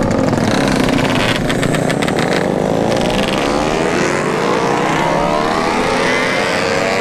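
Yamaha RX-King two-stroke motorcycle engine running under way and accelerating, its pitch climbing steadily through most of the stretch.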